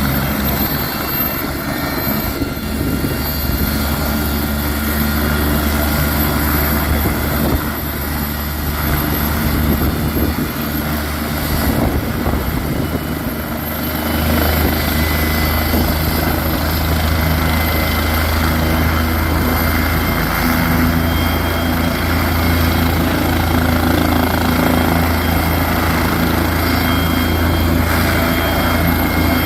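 Medical helicopter's turbine engine and rotor running steadily, a deep drone with a thin high turbine whine on top.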